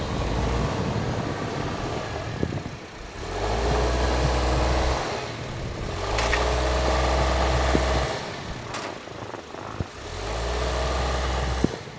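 An engine running, surging up and down every few seconds with a deep hum and rising and falling pitch.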